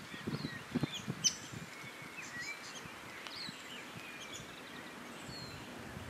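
Wild birds calling: a scatter of short chirps and small whistled glides, with soft low knocks or rustles in the first second and a half.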